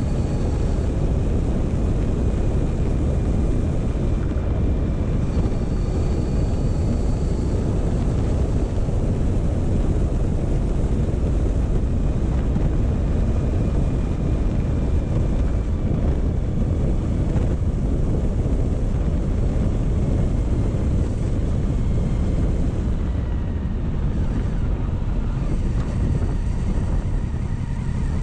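Motorcycle riding at a steady, slow pace: the engine runs evenly under a heavy rush of wind on the microphone.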